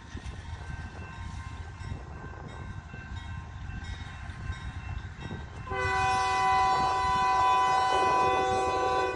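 Union Pacific locomotive air horn sounding one long, loud chord about six seconds in, held for about three seconds and cut off sharply, over the low rumble of the train rolling past.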